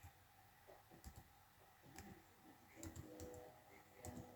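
Near silence with a handful of faint, separate clicks about a second apart, from a computer being worked while images are browsed.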